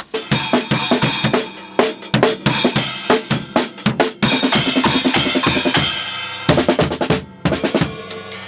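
Drum kit played hard: a dense run of kick, snare and cymbal hits with a short break about seven seconds in, stopping near the end with the cymbals left ringing.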